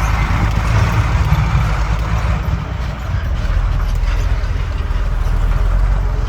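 Heavy diesel engine of a Caterpillar 320BL excavator running steadily under load, with a low engine hum and a hiss of machine noise over it.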